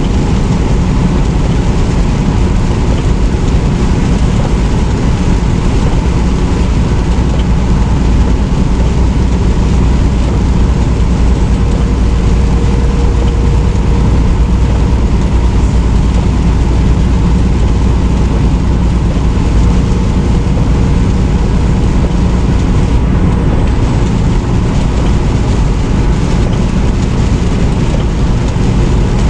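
Semi truck on the move: a loud, steady engine drone with road noise.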